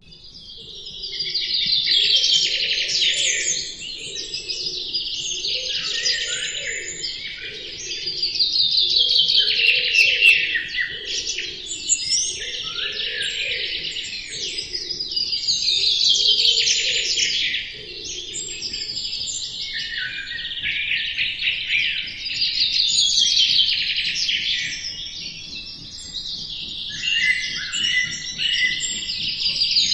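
Birds singing: a loud song phrase of rapid high chirps and trills comes back about every seven seconds, with softer chirping between the phrases.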